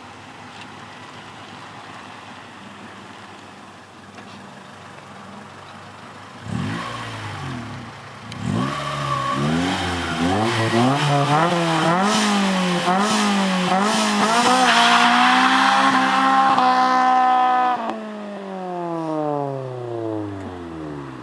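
Honda Civic's 1.6-litre B16A2 DOHC VTEC four-cylinder engine idling, then revved in repeated blips that climb higher and higher. It is held at high revs for a few seconds, then the throttle is let off near the end and the revs fall steadily back toward idle.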